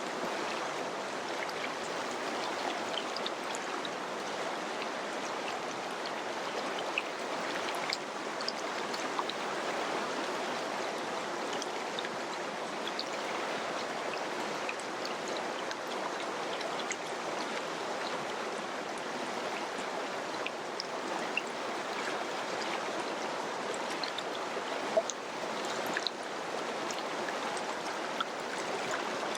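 Mountain river rushing and babbling over rocks in a steady, even flow, with small splashes and droplet ticks scattered through it.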